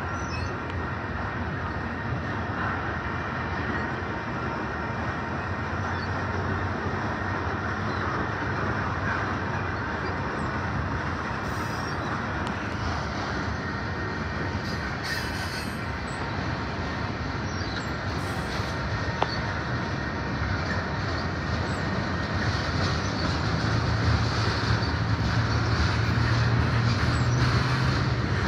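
Freight train cars rolling past at close range: a steady rumble and clatter of steel wheels on the rails, getting louder toward the end.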